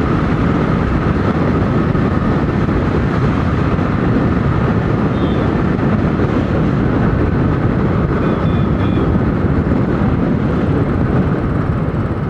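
Steady wind rush on an action camera's microphone while riding, over the running single-cylinder engine of a Royal Enfield Thunderbird motorcycle; the noise comes up sharply at the start and stays loud and even.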